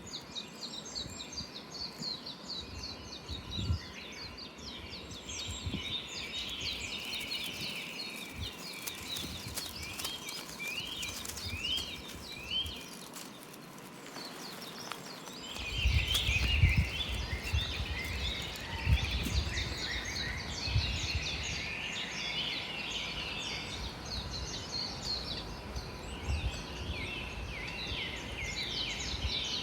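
Several wild birds singing and calling together: many short chirps and a run of repeated rising notes. A low rumble joins about halfway through.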